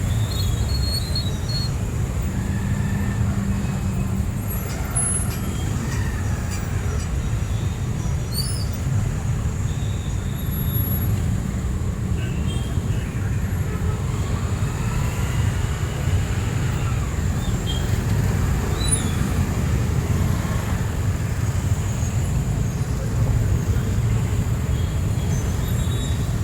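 City street traffic: a steady low rumble of vehicles moving along a wet road, with a few faint brief tones from horns or brakes over it.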